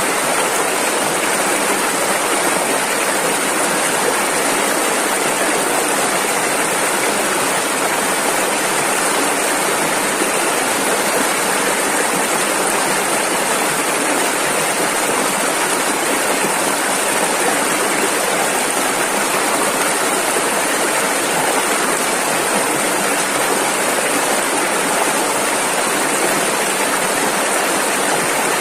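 Rushing river water running fast over rocks: a steady, even rush with no breaks or changes.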